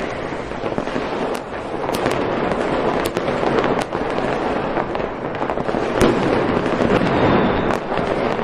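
Fireworks going off in a dense, continuous crackle, with a handful of sharp bangs; the loudest comes about six seconds in.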